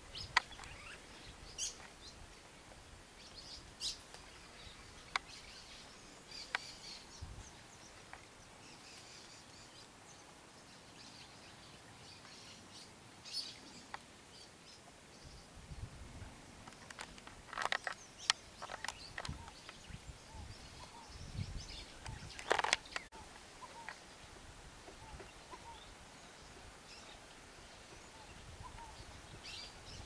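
Faint outdoor background noise with scattered short, high bird chirps and calls. A few louder sharp sounds cluster past the middle.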